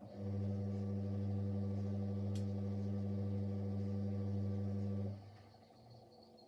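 Siemens Siwamat Plus 574 washing machine giving a steady electrical hum of one pitch for about five seconds, then stopping, at the start of its anti-crease phase after the final spin. There is a faint click about halfway through.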